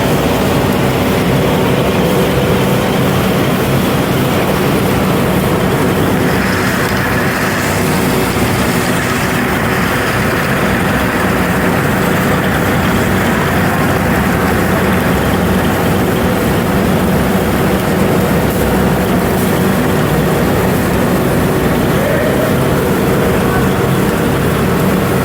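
Factory machinery running steadily: a loud, continuous mechanical noise with a steady hum in several tones.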